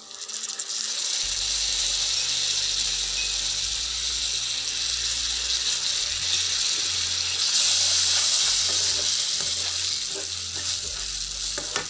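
Sago pearls frying in bubbling ghee and sugar syrup in a non-stick pan, a loud steady sizzle that starts suddenly. Near the end a wooden spatula scrapes and stirs through the pan.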